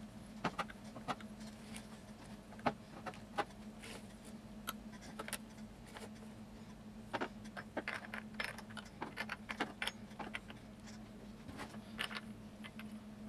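Irregular small metallic clicks and clinks of a saw chain and chainsaw parts being handled as the chain is fitted back onto a Husqvarna 455 Rancher's bar and sprocket, over a faint steady hum.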